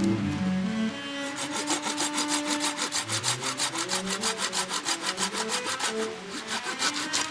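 Hand saw cutting through a piece of firewood in quick, regular back-and-forth strokes, starting about a second in and pausing briefly near the end, with soft background music underneath.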